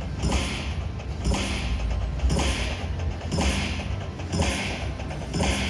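Dragon Train slot machine's free-games bonus sounds: a short thud with a hissing swish repeating about once a second, over a steady low casino rumble.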